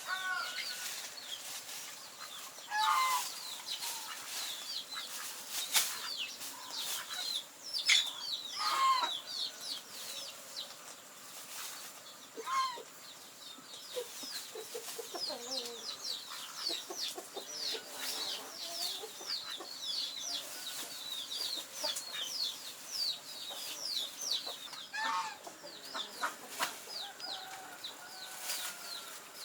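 Chickens clucking, with a steady stream of quick, high, downward chirps throughout and a few sharp knocks.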